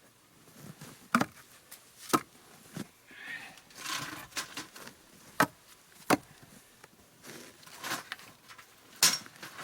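Split firewood being stacked: pieces of wood knock against each other in sharp, irregular clunks about a second apart, with some rustling and scraping of wood in between.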